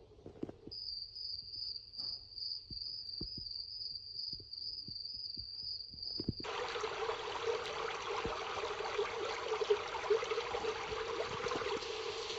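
Dreamegg Pocket Sleep 1 mini white noise machine playing a cricket-chirp track, a steady high pulsing trill. About six seconds in it switches abruptly to a steady rushing noise track.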